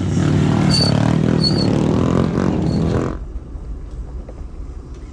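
Motorcycle engine running loudly, then cutting off abruptly about three seconds in, leaving a much quieter background.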